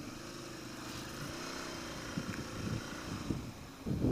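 A 2013 Ducati Monster 696's air-cooled L-twin engine running under way, its pitch rising and falling with the throttle.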